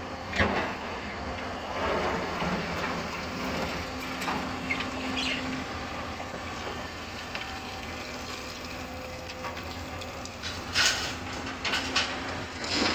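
Hyundai 220 excavator's diesel engine running steadily while loading, with a held tone a few seconds in and several sharp knocks near the end.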